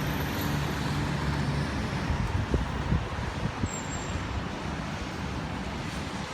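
Steady hiss of road traffic on rain-wet streets, with a low engine hum that stops about two seconds in, followed by a few soft low thumps.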